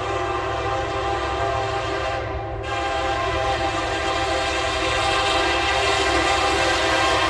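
Norfolk Southern SD70ACE diesel locomotive's air horn sounding a steady multi-note chord over the low rumble of the train. The horn breaks off briefly about two and a half seconds in, then sounds again, growing a little louder near the end.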